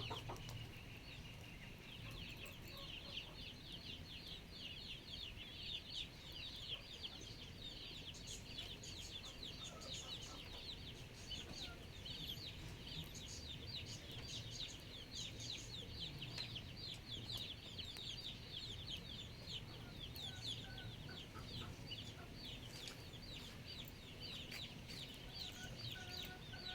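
Many birds chirping at once in a dense, continuous chatter of quick high falling notes, with a low steady hum underneath.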